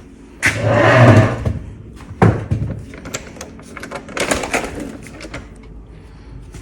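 A door being opened: a rumbling, scraping movement about half a second in, a sharp knock about two seconds in, then a run of light clicks and rattles.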